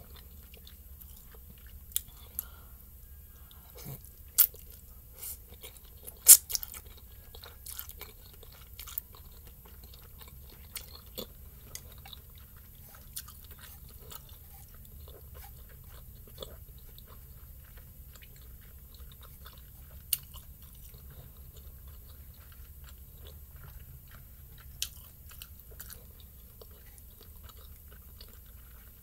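Close-up chewing of instant noodles, soft and wet, with a few sharp clicks of wooden chopsticks against the pan, the loudest about four and six seconds in. A low steady hum sits underneath.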